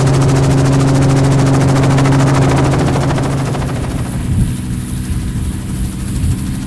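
Helicopter rotor and engine running loud and close, a steady hum with fast blade chop; about three and a half seconds in it drops away to a quieter drone with a thin high whine and a few knocks.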